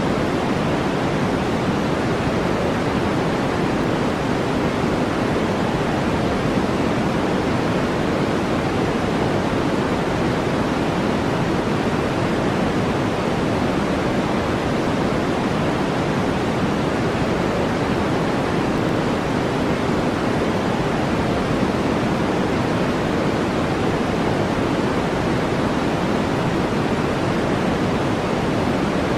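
Steady synthetic noise, a deep, even hiss that never changes, like a white-noise relaxation track.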